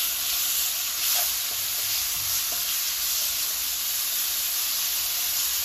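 Chopped tomato, onion and ground spices frying in oil in a nonstick kadhai, sizzling steadily while a spatula stirs and scrapes through them: the masala being sautéed.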